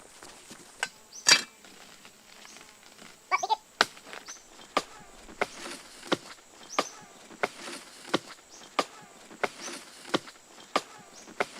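A series of sharp knocks, irregular at first with one loud crack about a second in, then settling into a steady beat of about three knocks every two seconds.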